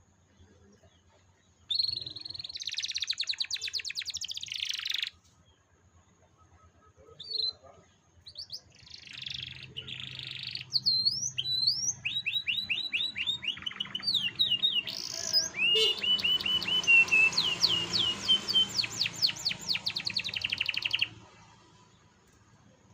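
Canary singing in phrases: a buzzy trill a couple of seconds in, a pause, then runs of quick sweeping notes and rolling trills that build to a long rattling trill, which stops near the end.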